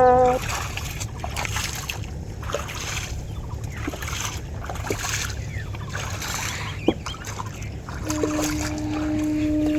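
Massey Ferguson MF 385 tractor's diesel engine running steadily with a low rumble. About eight seconds in, a steady pitched tone joins it for a few seconds.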